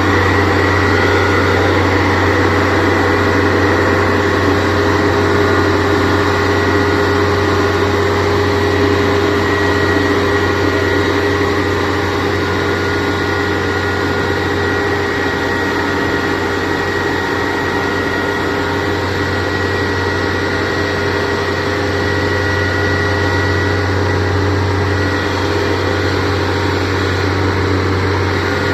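Heavy machinery's diesel engine running steadily, with a steady high whine over it. It eases off slightly about twelve seconds in.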